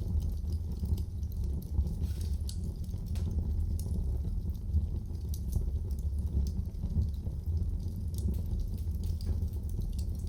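Wood fire burning in a fireplace: a steady low rumble of flames with scattered small crackles and pops throughout.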